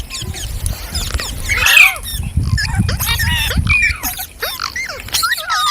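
Green parrots chattering and squawking: many short calls that sweep up and down in pitch and overlap, with a louder shriek just under two seconds in. A low rumble runs under the first part of the calls.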